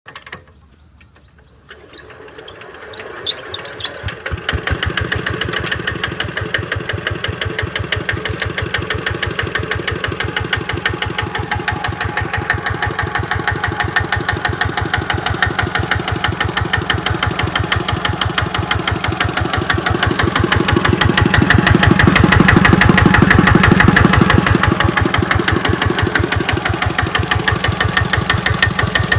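Kubota RT90 walking tractor's single-cylinder diesel engine starting a couple of seconds in and settling into a steady, evenly beating run, louder for a few seconds about two-thirds through.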